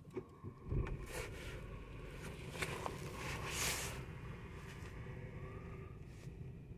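Ford Focus 1.0 EcoBoost three-cylinder petrol engine starting from cold, catching about a second in and then idling steadily, heard from inside the cabin. A few clicks and rustles over the running engine.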